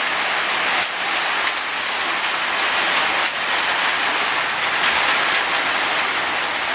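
Heavy hailstorm: torrential rain pouring down steadily, with many sharp ticks of hailstones striking hard surfaces scattered through it.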